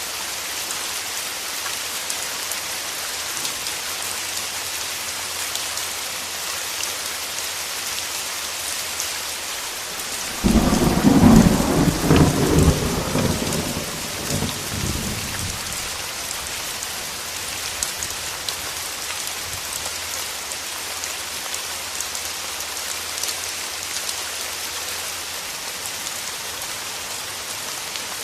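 Steady rain falling, with a sudden clap of thunder about ten seconds in that rumbles and fades over several seconds.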